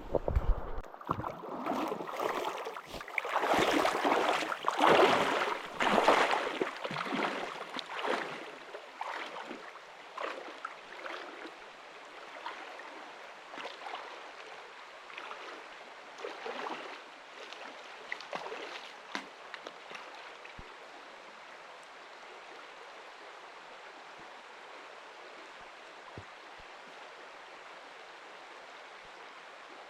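A small river flowing steadily, an even rush of water. Over the first several seconds, louder irregular crunching and rustling sounds come and go, then stop.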